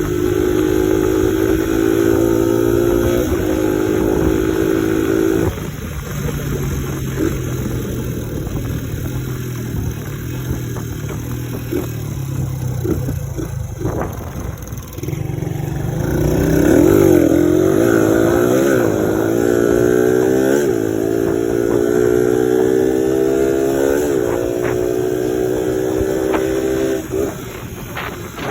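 1986 Suzuki DR100's single-cylinder four-stroke engine under way, its pitch climbing and stepping down at each upshift. About five seconds in it backs off and runs lower for several seconds. It then revs up and down, pulls through the gears again, and drops off near the end.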